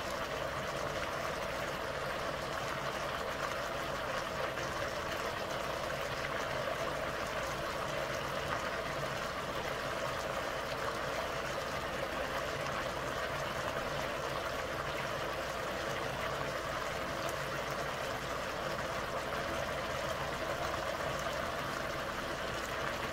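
Potatoes and carrots frying in oil in a cooking pot, an even, steady sizzle.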